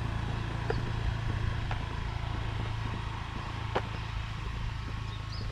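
An engine running steadily at idle, a low even hum, with a few light clicks over it.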